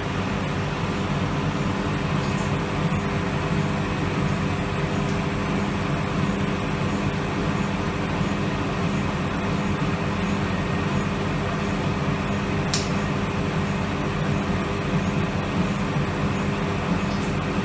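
Hoover Electra 535 Dual Spin washing machine in its final spin, the motor and drum running at a steady high speed with a constant hum, toward its 800 rpm maximum.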